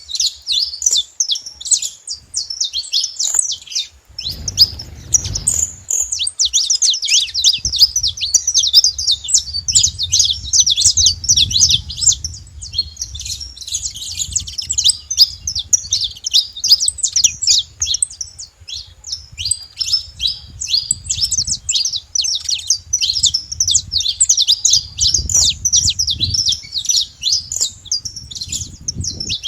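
A flock of saffron finches chirping and singing together, a dense, overlapping stream of short high calls and trills with no break. A low rumble comes and goes underneath a few times.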